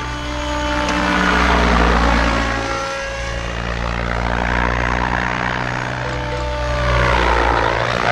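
Goosky RS7 electric RC helicopter in flight: steady motor whine and rotor-blade rush. It swells louder twice, about two seconds in and again near the end, as the sound shifts with the helicopter's movement.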